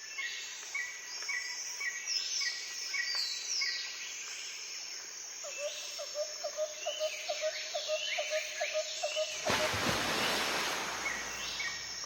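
Several birds singing and calling, with short falling whistles and steadily repeated high chirps. In the middle comes a run of quick, evenly spaced lower notes, about four a second, lasting a few seconds. About nine and a half seconds in there is a brief rush of noise.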